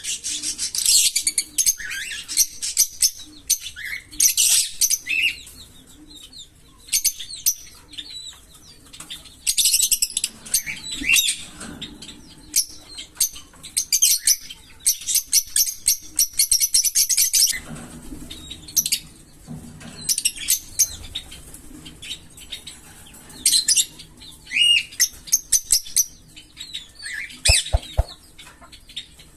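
Small pet parrots chirping and chattering in clusters of rapid, high-pitched calls with short pauses between them.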